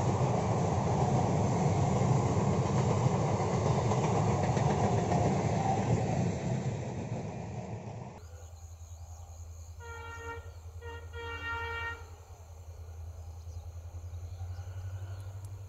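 An EMU local train running past on electrified track, a loud steady rumble of wheels on rail that fades away. After a cut, a distant locomotive's horn gives a short series of blasts over a low steady hum.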